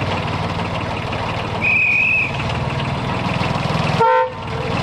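Diesel railway engine running steadily, with a short high-pitched whistle toot about two seconds in and a brief, louder horn toot near the end.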